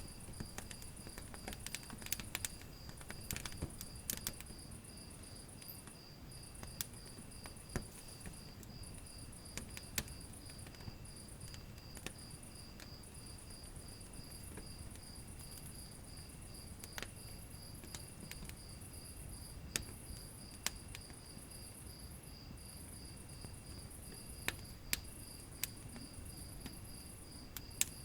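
Wood fire in a fireplace crackling, with irregular sharp pops over a low rumble of the flames. A steady, high chirping trill, pulsing evenly, runs along with it.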